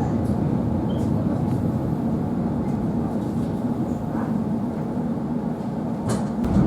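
Electric commuter train (elektrichka) running along the line, heard from inside the carriage: a steady low rumble of wheels and running gear, with a few sharp clicks, one about a second in and two near the end.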